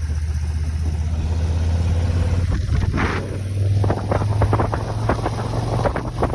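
Motorcycle engine running steadily while riding, its pitch stepping up about halfway through, with wind buffeting on the microphone.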